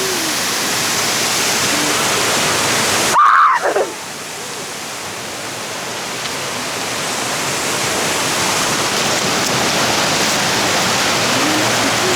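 Waterfall and fast river water rushing steadily, with one short high-pitched cry from a person about three seconds in.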